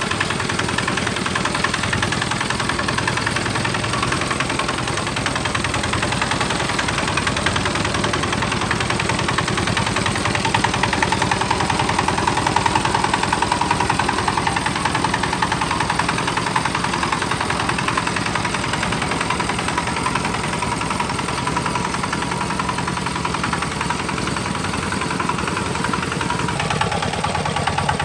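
Homemade tractor's engine running steadily with a rapid, chugging beat. It gets a little louder partway through and its note shifts near the end.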